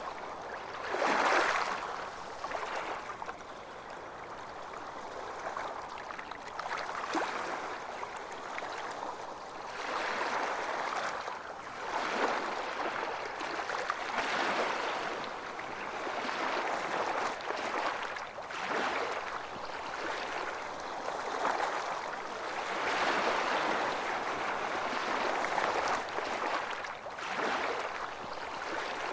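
Surf on a beach: small waves breaking and washing up in a continuous hiss that swells and ebbs every few seconds, loudest about a second in.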